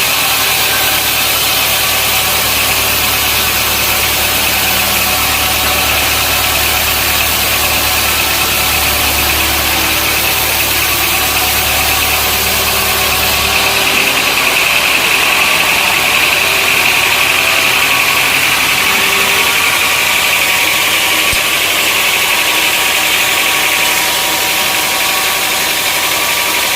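Sawmill machinery running steadily, a saw cutting through wood with a continuous mechanical whine and hiss. A low hum underneath drops out about halfway through.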